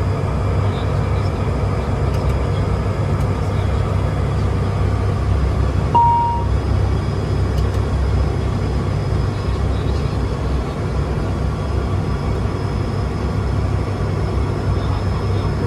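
ATR 72-600 twin turboprop engines and propellers droning steadily in flight, with a strong low hum. A single short tone sounds about six seconds in.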